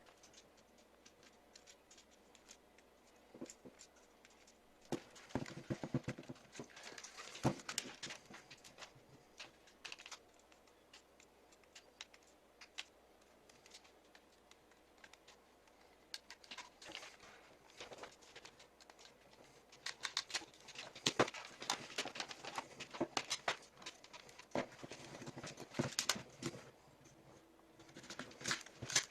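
Hands working on disassembled plastic headphones: irregular small clicks, taps and rustling, in two busier stretches with quieter gaps between.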